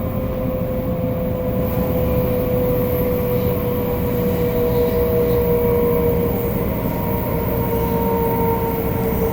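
500 series Shinkansen running, with the whine of its Toshiba GTO-VVVF traction inverters over a constant rumble of wheels on rail. The whine is held in steady tones that slowly fall in pitch as the train slows.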